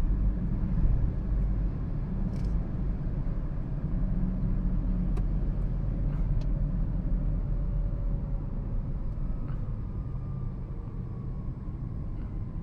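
2013 Toyota Prius hybrid driving: a steady low rumble, with a faint whine that falls slowly in pitch over the second half.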